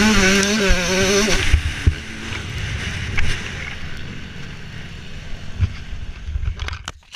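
Motocross bike engine heard from the rider's helmet, running at fairly steady revs, then cutting out about a second and a half in. After that there is rumbling wind noise with a few knocks, fading away.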